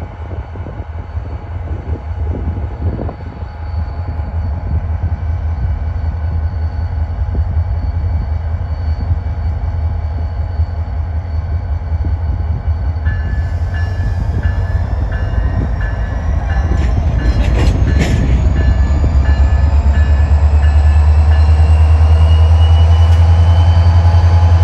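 Train approaching, its deep rumble growing steadily louder. From about halfway in, a high ding repeats at an even pace, about one and a half times a second, for several seconds, and a faint rising whine comes in near the end.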